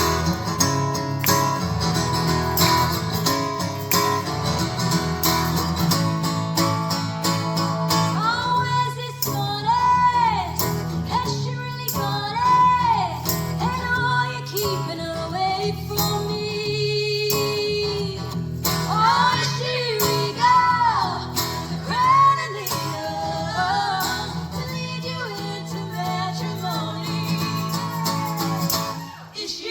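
Live guitar-and-vocal music: the guitar plays on its own at first, and a voice begins singing the melody about eight seconds in, holding one long note partway through.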